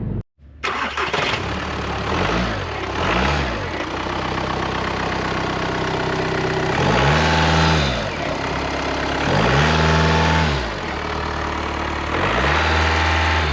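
2014 Volkswagen Passat TDI's 2.0-litre four-cylinder turbodiesel idling and being revved in place. There are two quick throttle blips, then three longer revs, each rising and falling back to idle.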